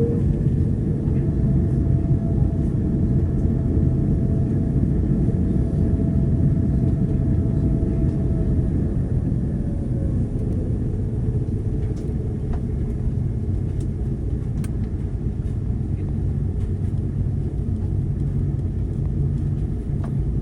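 Cabin noise aboard an Airbus A330-200 taxiing: a steady low rumble from the jet engines and airframe, with a faint whine that slides down in pitch about ten seconds in.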